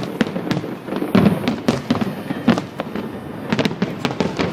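Fireworks display: a rapid, irregular string of bangs and crackling pops, several a second, over a low rumble.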